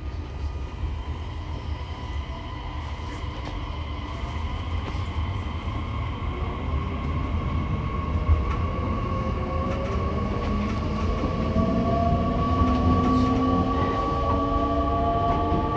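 E501-series electric train heard from aboard its motor car: the traction motors and VVVF inverter whine in several tones that rise steadily in pitch as the train gathers speed, over a low running rumble from the wheels and track.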